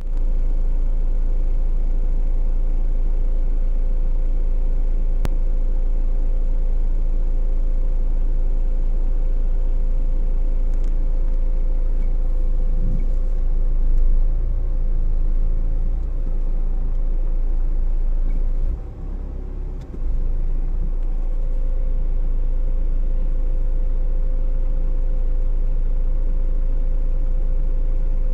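Car engine idling, a steady low rumble with a constant hum, heard from inside the car's cabin; the level dips briefly about two-thirds of the way in.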